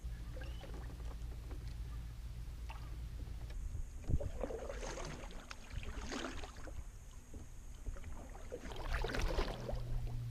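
A kayak moving on the water, with splashing paddle strokes around four to six seconds in and again near nine seconds, over a steady low rumble.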